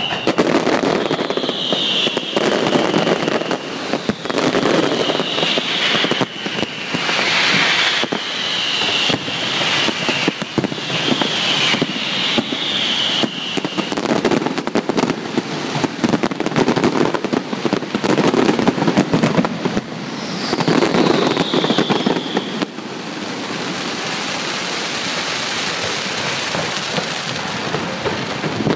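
Fireworks display: dense, irregular bangs and crackling of bursting shells, with several short falling whistles. For the last several seconds the bangs give way to a steady hiss.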